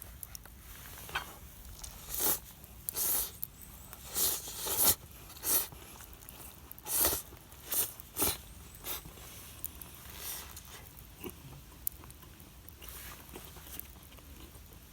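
A person eating spaghetti: a run of short, irregular chewing and slurping noises, about a dozen, thickest in the first half.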